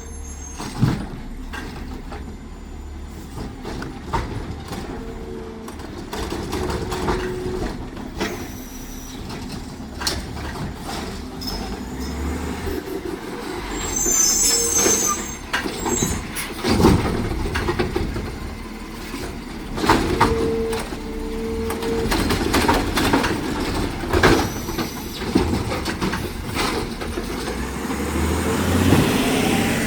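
Heil Rapid Rail automated side-loader garbage truck at work: its engine running, with repeated clanks and knocks and brief high squeals about fourteen seconds in.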